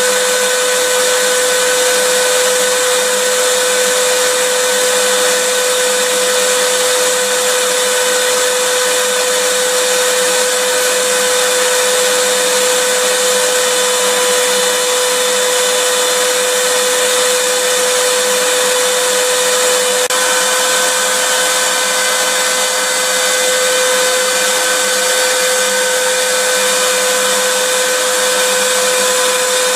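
Vacuum cleaner motor running steadily: a constant whine over a hiss of rushing air, with a slight shift in tone about twenty seconds in.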